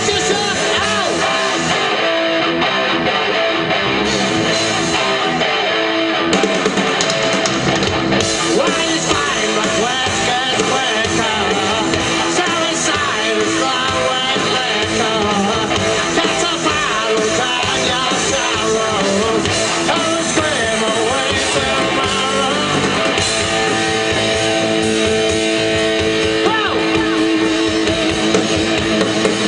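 Live heavy rock band playing an instrumental stretch with distorted electric guitar to the fore over bass and drums.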